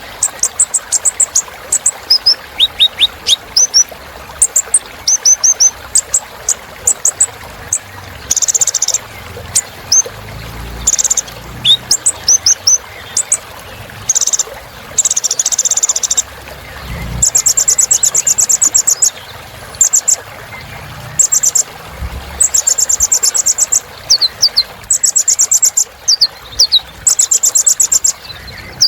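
Kolibri ninja sunbird singing a long, busy run of high, sharp chirps, falling whistled notes and fast rattling trills, one after another, over a steady hiss in the background.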